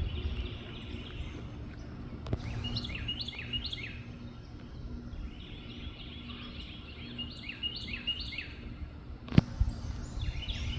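A songbird singing phrases of quick, repeated chirping notes, with a few seconds' pause between phrases, over a low outdoor rumble. There is a single sharp click near the end.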